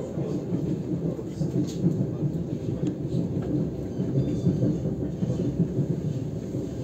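Steady low rumble inside the carriage of an ES2G Lastochka electric train running along the line, with a few faint clicks from the wheels and fittings.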